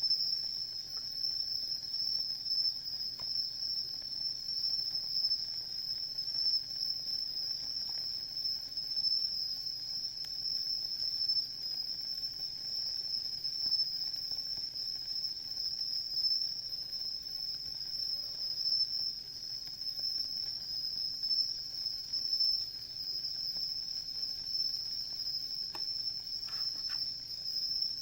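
Singing insects, a steady high-pitched chirring chorus without a break. A few faint crackles from the wood fire come near the end.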